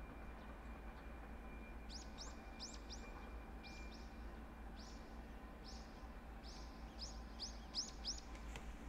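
A small bird calling in a quick series of short, rising chirps, starting about two seconds in, over a steady low background rumble.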